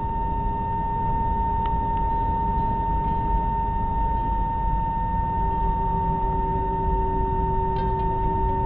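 Steady airliner cabin noise: a low engine rumble with a constant high whine, and a second, lower steady tone joining about five seconds in.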